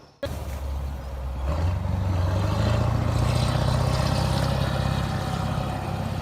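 Heavy vehicle's diesel engine running, picking up revs and load about a second and a half in, then holding a steady, louder drone.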